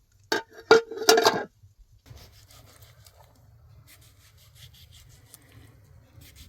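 Four or five loud scraping strokes in the first second and a half, then quieter scratchy rubbing, like food-preparation work on a hard surface.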